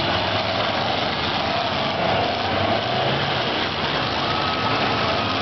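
Several demolition derby cars' engines running together in a dense, steady din, their pitches wavering up and down as they rev.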